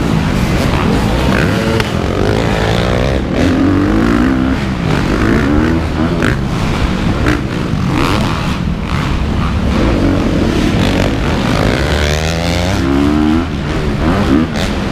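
Dirt bike engines revving up and down over and over, the pitch climbing and dropping as the riders work the throttle, with more than one bike running at once.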